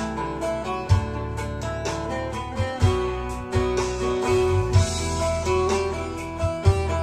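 Bağlama (Turkish long-necked lute) picking a quick instrumental melody over a backing of sustained bass and a drum hit about every two seconds, with a cymbal wash in the middle.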